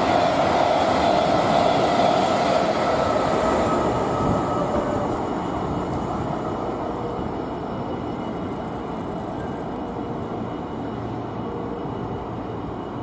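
A train passing on the line, loudest for the first four seconds or so, then fading steadily as it moves away.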